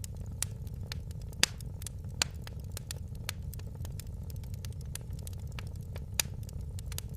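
Wood fire in a fireplace crackling: irregular sharp pops and snaps over a steady low rumble of the flames, with one louder pop about a second and a half in.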